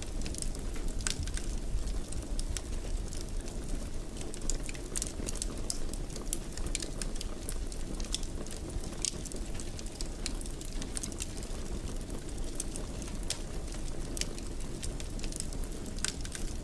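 Wood fire burning in a fireplace: frequent small, irregular crackles and pops over a steady low rush of the flames.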